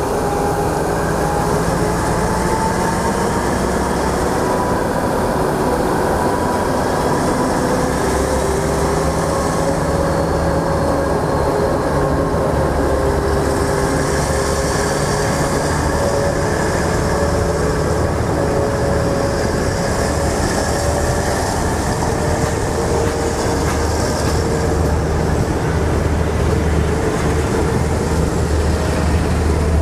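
Passenger carriages of a Thai ordinary train rolling slowly past as it pulls out of the station. It is a steady rumble with a few long, faint tones that drift slowly in pitch, and a deeper rumble builds near the end.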